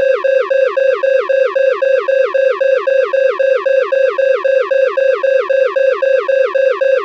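Loud electronic alarm tone repeating about three times a second, each cycle a steady pitch that then drops sharply.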